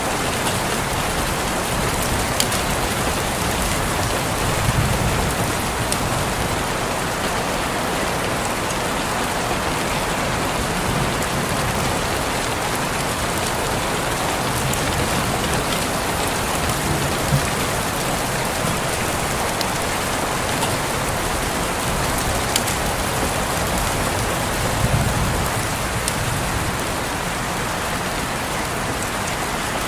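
Steady rain pattering on a window, with scattered sharper ticks of single drops.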